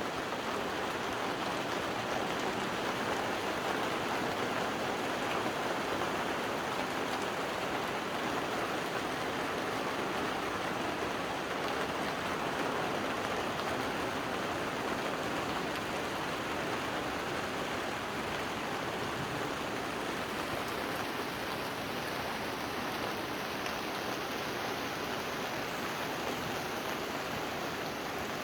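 Steady, even rushing of water, with no separate drops, knocks or tones standing out.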